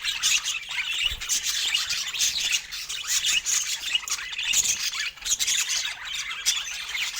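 Budgerigars chattering: a steady run of short, scratchy squawks and chirps.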